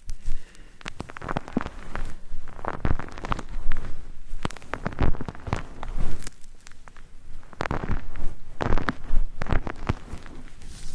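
Close-up ASMR trigger sounds on a microphone: irregular clusters of crackling and scratchy rubbing, coming in bursts every second or so.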